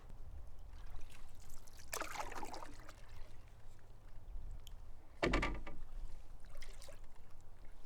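Canoe paddle strokes in lake water: two swishing splashes about three seconds apart, over a steady low rumble.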